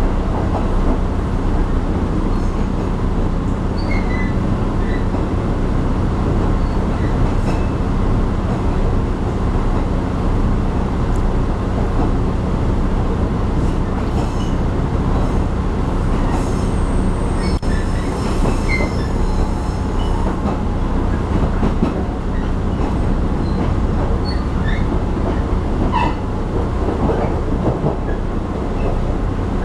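Taiwan Railway passenger train heard from inside the carriage while running: a steady low rumble and hum of wheels on rails, with a few brief high squeals from the wheels around the middle and again near the end.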